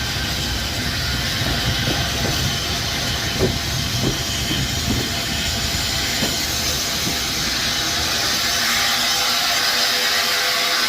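A train running on the rails: a low rumble with irregular knocks from the wheels, giving way after about six seconds to a steady hiss that grows louder toward the end.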